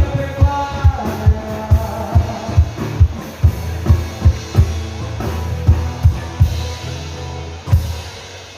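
Band music with a steady kick-drum beat, about two beats a second, that dies down near the end.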